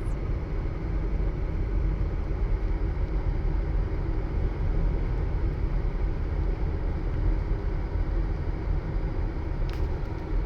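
Steady road and engine rumble heard from inside a moving car's cabin, with a brief click near the end.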